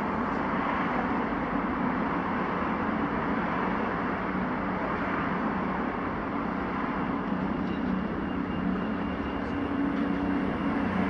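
Steady rumble and hiss of a Class 221 Super Voyager diesel train approaching from a distance, growing slightly louder near the end.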